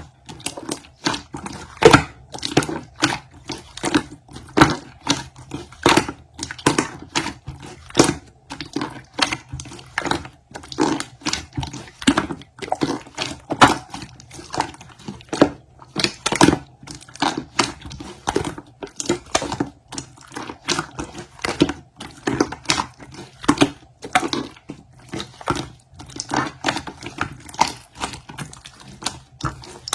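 A quick, irregular run of sharp clicks and taps, several a second.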